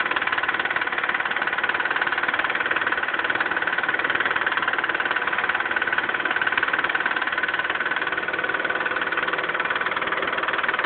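Mitsubishi 3000GT's V6 engine idling steadily with a fast, even lifter tick. The owner takes the tick for a lifter getting no oil.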